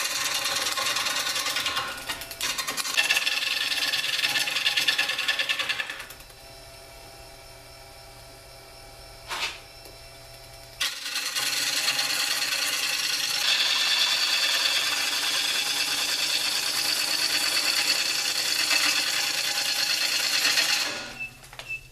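Bowl gouge cutting a dry hard maple bowl blank on a Jet mini 1221 wood lathe: loud rough cutting for about six seconds, then a few seconds of the lathe running quieter with a steady hum and one sharp tick, then cutting again until it drops off just before the end. The small lathe can't take the pressure put on the gouge.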